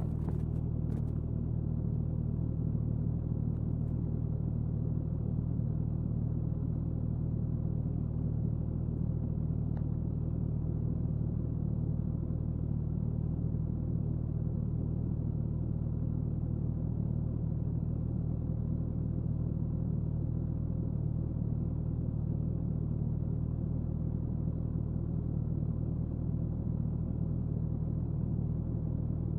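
Suzuki Hayabusa's inline-four exhaust at a steady highway cruise, a constant low drone that holds one pitch with no revving, mixed with road and wind noise.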